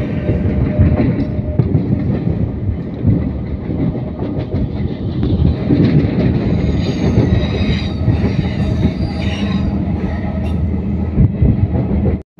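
Electric local train running, heard from on board: a steady rumble of wheels on rail with some clatter, and a faint high wheel squeal in the middle. The sound cuts out abruptly just before the end.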